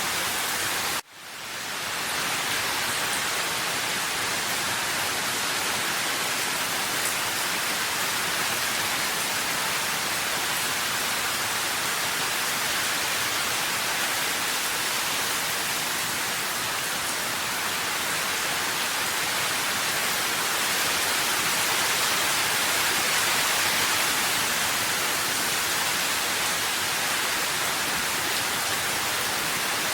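Steady rain with an even, dense hiss. About a second in it drops out abruptly and fades back up over about a second.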